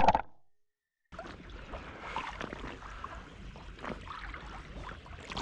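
Quiet marsh ambience around a kayak: faint water sounds and a few faint, scattered short calls over a low steady hiss. It starts about a second in, after the tail of a loud sound cuts off abruptly and a moment of dead silence.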